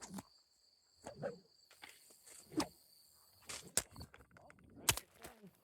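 Crickets trilling steadily with a few sharp snaps and knocks over them, the loudest a little before the end.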